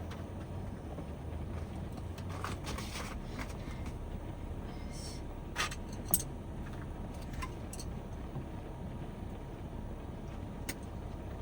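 Heavy typhoon rain drumming steadily on the van's roof, heard from inside, with a few small clicks and taps from handling things close by.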